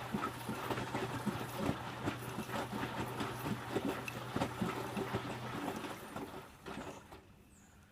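Electrolux W455H commercial washing machine drum turning a wash load through water: a steady motor hum with irregular sloshing and splashing. Both stop about six seconds in as the drum comes to rest.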